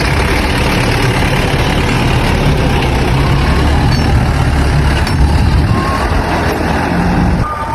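A truck engine running, loud and steady, easing off slightly near the end.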